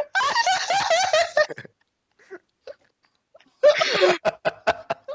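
A group of young people laughing and shrieking in high voices, in two bursts: the first lasts about a second and a half, and the second starts about three and a half seconds in, with a quiet gap between them.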